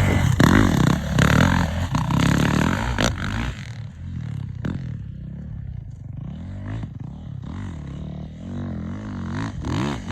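Dirt bike engine revving loudly through the first few seconds, its pitch swinging up and down. It then drops to a quieter level, where the revs keep rising and falling, with a few sharp knocks.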